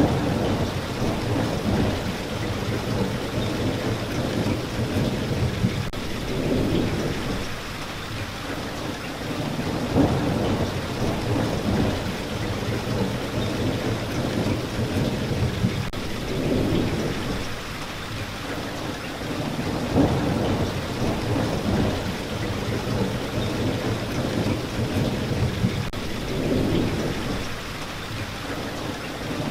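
Steady heavy rain, with a low rumble that swells and eases every three seconds or so.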